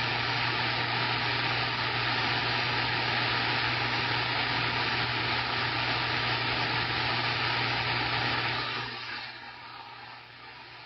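CB radio receiver putting out loud, steady static hiss with a low hum under it, which drops sharply to a fainter hiss about nine seconds in. This is typical of a weak, distant station keying up too far down in the noise to copy.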